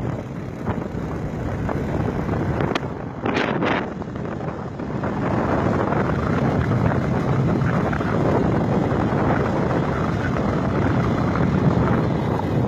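Motorbike or scooter riding, its engine running under a steady rush of wind on the microphone. Two brief higher sounds come about three and a half seconds in.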